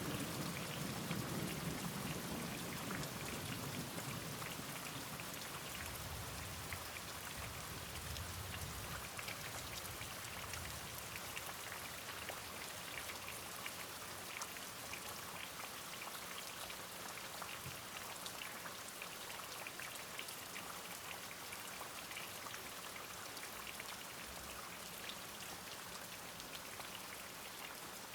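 Steady rain with many separate drops ticking on a surface. A low roll of thunder dies away over the first few seconds, and a fainter low rumble swells briefly a little later.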